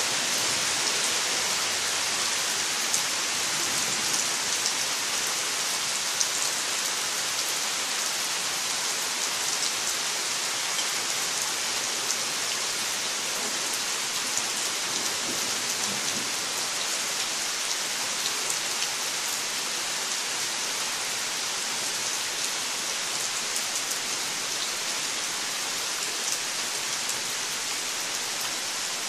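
Rain falling steadily on trees and garden: an even hiss with a few sharper ticks of nearby drops.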